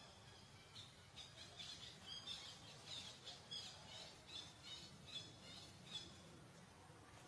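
Faint, high-pitched bird chirping: a run of short chirps, roughly two a second, that starts about a second in and stops near the end.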